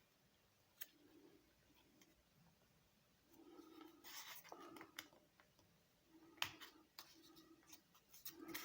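Faint rustling and crinkling of a sheet of origami paper being folded and creased by hand, with a few sharp little clicks and scratches, busier in the second half.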